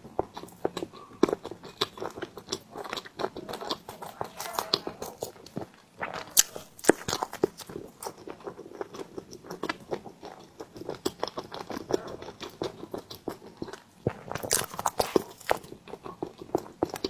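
Someone chewing and biting steamed bread, with many irregular wet mouth clicks and smacks.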